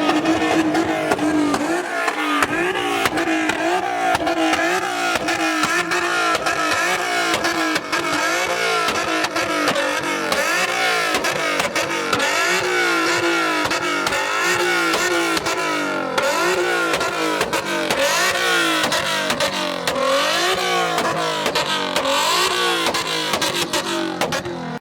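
Car engines revving again and again, their pitch rising and falling in repeated sweeps, with crackle from the exhaust.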